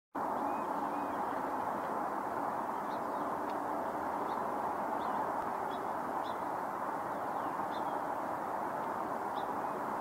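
Wild birds giving faint short chirps about once a second over a steady rushing background noise.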